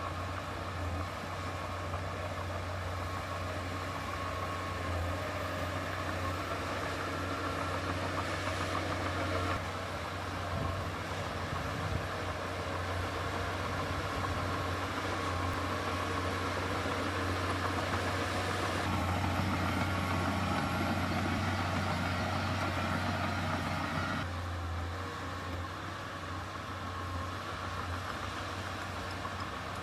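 Diesel engine of heavy earthmoving machinery running steadily, growing louder partway through and easing back near the end.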